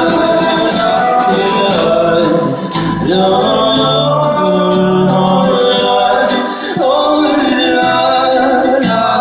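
Live band music at a concert: a full band with brass horns playing sustained melody lines, and singing mixed in.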